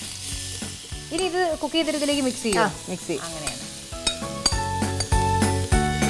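Chicken pieces and tomato sizzling in hot oil in a small frying pan as they are tipped in and stirred. Background music with a steady beat comes in about four seconds in.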